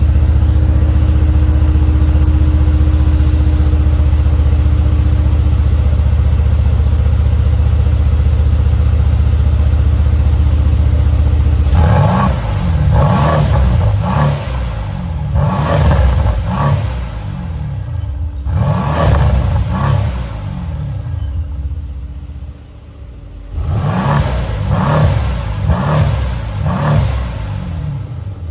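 Mercedes-AMG C63 (W205) 4.0-litre twin-turbo V8 on its stock exhaust, running steadily for about twelve seconds, then revved in several groups of quick throttle blips, each rising and falling in pitch.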